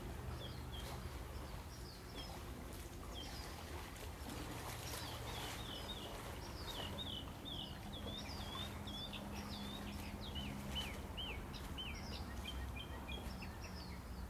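Birds chirping and singing in many short, quick notes, busiest toward the middle, over a steady low background noise.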